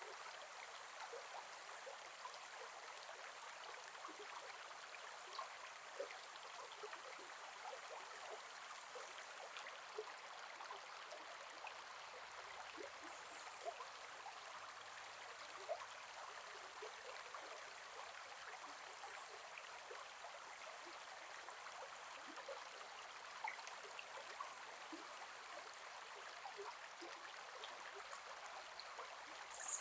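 A gentle forest river flowing: steady babbling water with many small plinks and an occasional brief, louder splash.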